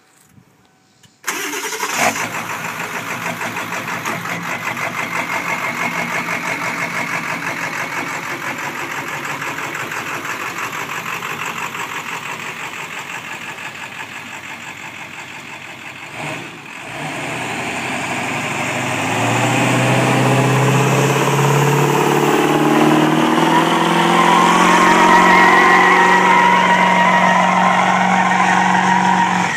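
Truck engine starting about a second in, then running with a rapid, even pulsing. After a brief dip about halfway through, it speeds up, its pitch rising and holding higher and louder toward the end.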